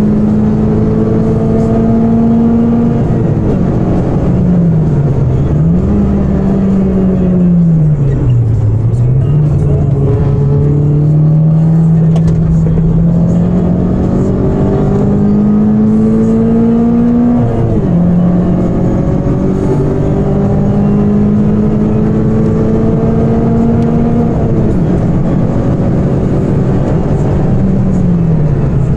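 Citroën Saxo VTS 16V's 1.6-litre 16-valve four-cylinder, with aftermarket exhaust manifold and air filter, heard from inside the cabin at full throttle and on the brakes. The revs fall twice as it brakes and changes down for a corner, then climb slowly under acceleration. They drop sharply at an upshift about two-thirds through, climb again, and fall near the end as it slows for the next corner. Steady road and tyre noise runs underneath.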